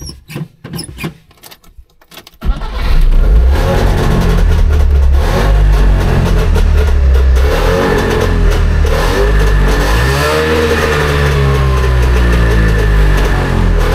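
Trabant 601's two-stroke two-cylinder engine starting after a few clicks, catching about two and a half seconds in and then running loudly. The revs rise and fall as it is given throttle to keep it from stalling, since it won't yet hold idle.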